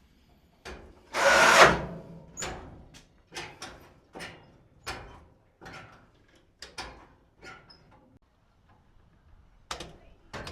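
Garage workshop noise: one short, loud burst of noise about a second in, then a run of irregular knocks and clicks, like tools and parts being handled.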